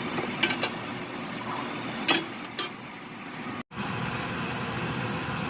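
Three short clinks of a cooking utensil against the pan, over a steady background hum that cuts out for an instant past the middle.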